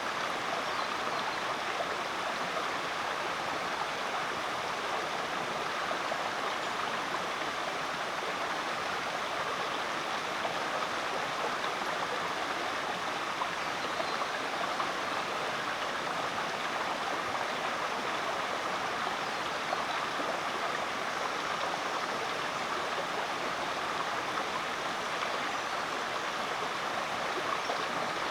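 Rainforest creek running: a steady, even rush of flowing water with no breaks.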